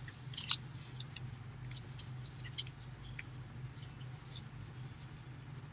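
A sheet of paper being handled and folded by hand, giving scattered small crackles and ticks, the sharpest about half a second in.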